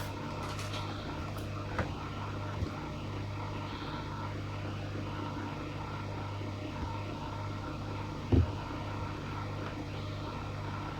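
A steady low background hum, with a couple of faint clicks early on and one louder thump about eight seconds in.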